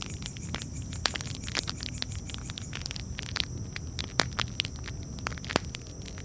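Campfire crackling: irregular sharp pops and snaps over a steady low rumble, with one of the sharpest pops about four seconds in.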